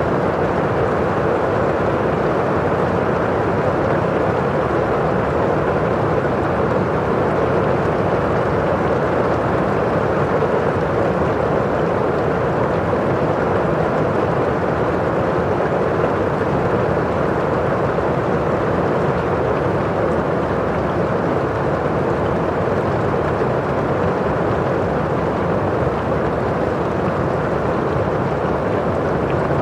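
Steady rain on a window pane, with the rustle of rain falling outside: one even, unbroken noise with no single drops standing out.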